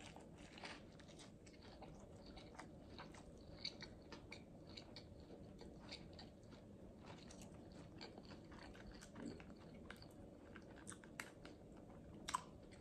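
Faint close-up chewing of a bite of a crispy fried chicken sandwich: many small, irregular crunching clicks.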